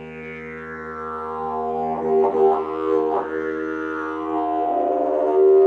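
Didgeridoo playing a steady low drone, its overtones sweeping up and down as the player shapes the tone with the mouth. There are a few quick accents in the middle, and it grows louder about five seconds in.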